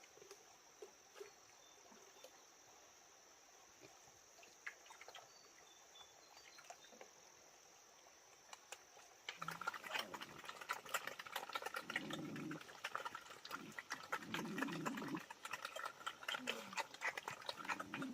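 A steady high insect trill with a few faint clicks. About halfway through it gives way abruptly to pigs grunting in short low calls, over a dense patter of clicks and rustling.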